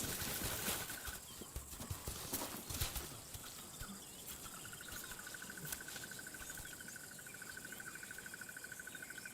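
Faint wild-bush sound: an insect's rapid, even trill on one steady pitch, broken off for a few seconds near the start. Soft scuffling and light thuds during the first few seconds.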